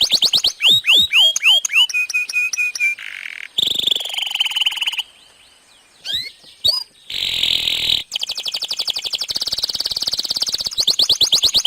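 Domestic canary singing a long, varied song: quick runs of falling whistled notes, repeated chirps and buzzy, rapid trills, with a brief pause about five seconds in.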